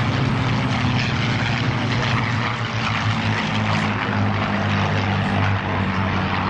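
A formation of P-51 Mustang fighters flying past, their V-12 piston engines and propellers making a loud, steady, deep drone with a noisy rush above it.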